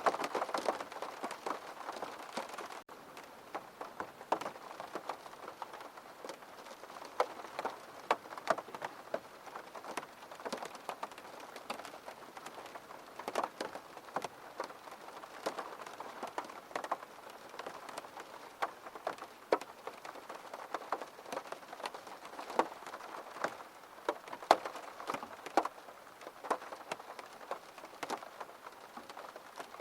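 Gentle rain falling: a steady patter with many distinct drops ticking on a surface, a little softer after about three seconds in.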